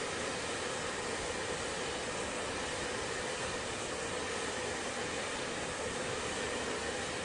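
Hair dryer running continuously, a steady rushing of air with a low hum and no change in speed.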